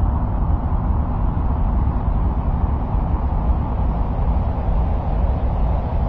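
Steady, unchanging low rumbling noise with a softer hiss above it, an ambient noise track presented as the sound of Mars.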